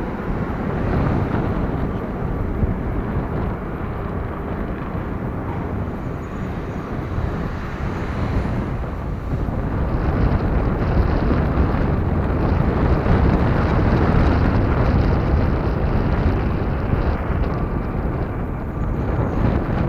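Jet airliner on final approach, its engines growing louder to a peak about two-thirds of the way through and then easing, with wind buffeting the microphone.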